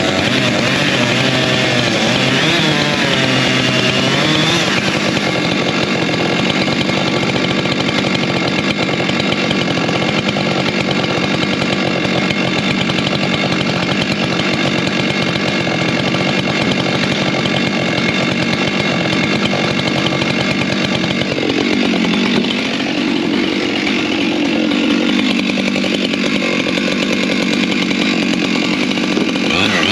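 Two-stroke chainsaw running at high revs while cutting firewood logs, its pitch wavering in the first few seconds. About two-thirds of the way through the engine pitch drops as it is loaded in the cut, then climbs again near the end.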